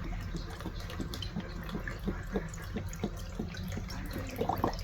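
Chicken broth stew liquid in the pot, with irregular small bubbling pops and trickles.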